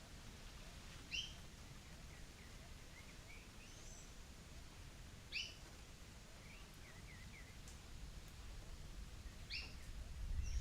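Wild birds calling: a sharp, rising two-part call repeats three times, about four seconds apart, over softer short chirps from other birds. A low rumble builds near the end.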